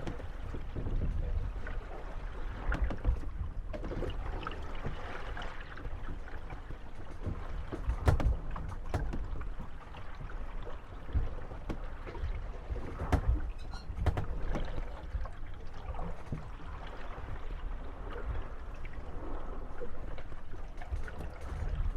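Moored gondolas rocking on the waves, knocking and creaking against one another over a steady wash of lapping water. Scattered sharp knocks stand out, the loudest about eight seconds in.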